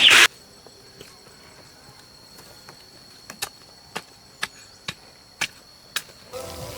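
Chickens clucking that cut off abruptly just after the start. Then a faint steady high whine and a run of six sharp clicks about half a second apart, with music coming in near the end.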